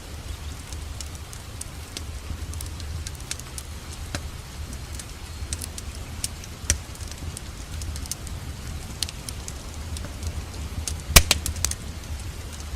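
Wood fire crackling in a fireplace: scattered sharp pops, with a quick cluster of louder pops about eleven seconds in, over a steady low rumble and hiss.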